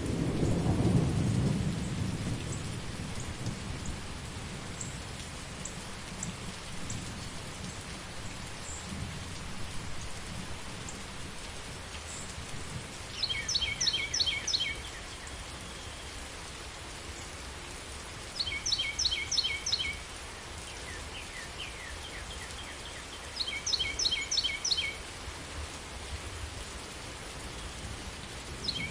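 Steady rain with a low thunder rumble that fades over the first few seconds. Four times, about every five seconds, a high chirping call of rapid repeated notes lasting a second or two sounds over the rain.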